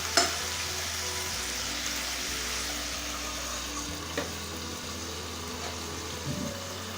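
Marinated chicken pieces sizzling steadily as they fry in hot oil, with two light knocks, about a quarter-second and about four seconds in.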